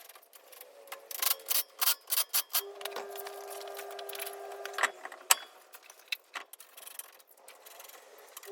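A run of sharp metallic clicks and clatters, busiest in the first few seconds, with two single loud clicks a little past halfway. A steady mechanical hum stops, returns for a couple of seconds in the middle, then stops again.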